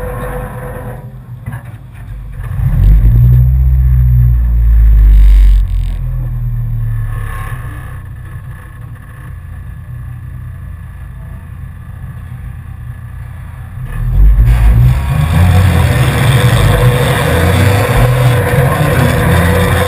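Inside the cabin of a four-cylinder enduro race car, its engine is running on track. It gets loud about three to five seconds in, drops quieter for several seconds, then gets loud again about fourteen seconds in.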